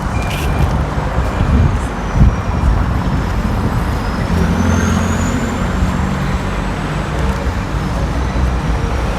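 Street traffic: motor vehicles running and passing with a steady low rumble. A louder engine sound swells about halfway through, and a faint high whine falls and then rises.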